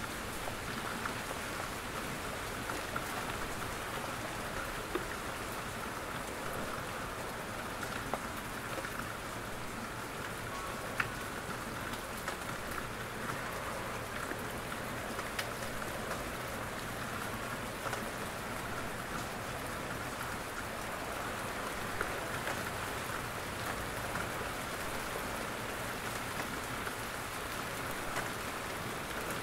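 Steady rain falling in a forest, a constant hiss of drops on leaves, with a louder single drop now and then.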